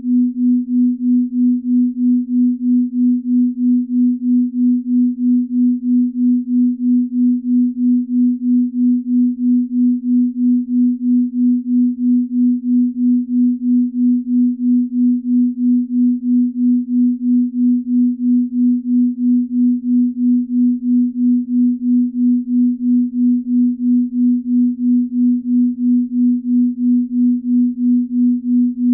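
Binaural-beat pure tone: one steady low sine tone whose loudness pulses evenly, about three times a second.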